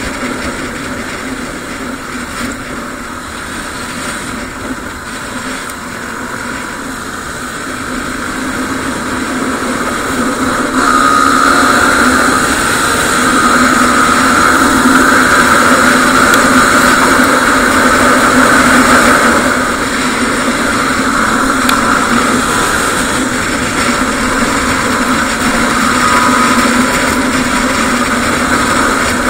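Yamaha WR250R's single-cylinder engine running while under way, a steady drone. It gets louder about eleven seconds in and eases off a little after about twenty seconds.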